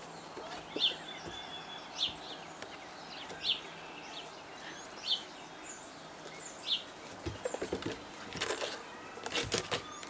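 A bird repeating a single short, high chirp about every second and a half over a steady outdoor hiss, with a cluster of quick scuffing and tapping sounds in the last few seconds.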